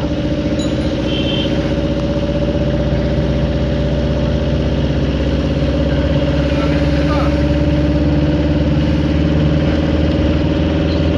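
An engine drones steadily at a constant speed, with no change in pitch.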